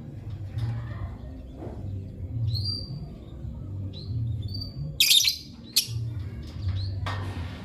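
Lovebirds chirping in short high calls, with a loud harsh shriek about five seconds in and two more sharp calls after it, over a low pulsing hum.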